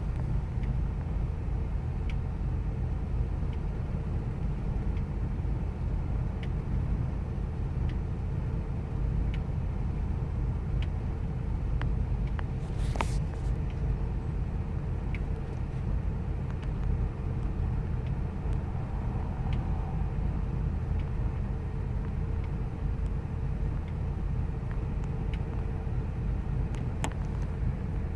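Ford 5.4-litre V8 engine of a 2000 Expedition running at a steady idle, the rough idle that is the vehicle's complaint, with faint scattered ticks. A brief sharp noise comes about halfway through.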